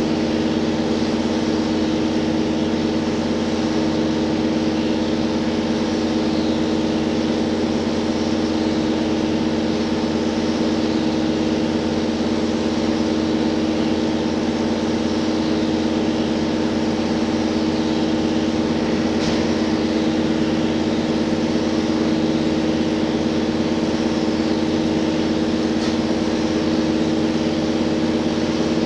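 Cabin sound of a JR Hokkaido H100 diesel-electric railcar, its diesel engine running at a steady pitch with an unchanging drone.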